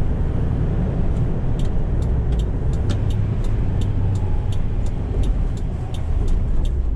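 In-cab sound of a 1988 Toyota Hiace fire truck on the move: its 2Y 1.8-litre four-cylinder gas engine running steadily under road noise from a bumpy road. From about a second and a half in, light clicks come two or three times a second.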